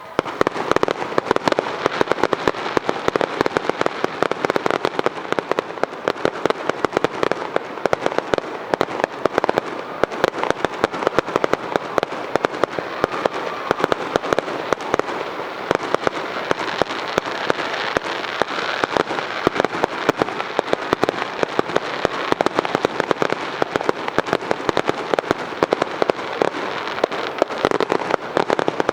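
Fireworks going off in a dense, continuous barrage of bangs and crackling, starting abruptly.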